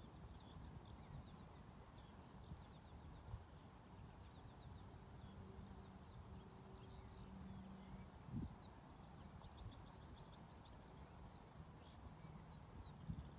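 Faint outdoor quiet with birdsong: many quick, high chirps over a low rumble. A faint steady low hum comes in from about four to eight seconds in, and there is a soft thump just after it.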